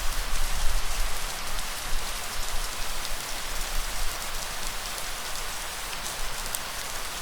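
Steady rain falling, a dense patter of drops on a surface, with a low rumble underneath that comes and goes.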